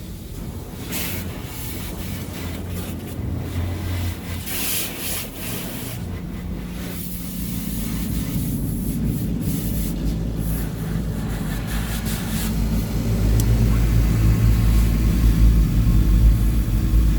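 Tunnel car wash heard from inside the car: washer arms scrubbing and water spraying against the body, over a low rumble that grows louder in the second half.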